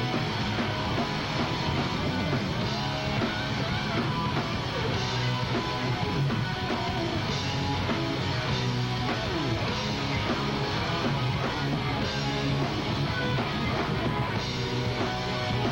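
Live rock band playing an instrumental passage without vocals, electric guitar to the fore over bass and drums, with cymbal crashes every few seconds.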